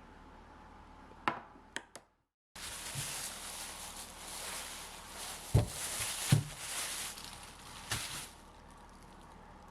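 Kitchen work sounds: a few light clicks, then a steady hiss lasting about six seconds with two heavy knocks about halfway through and a click near the end.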